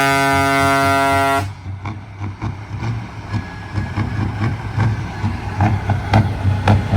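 A semi truck's air horn blowing one long steady chord that cuts off suddenly about a second and a half in, followed by a heavy diesel engine rumbling.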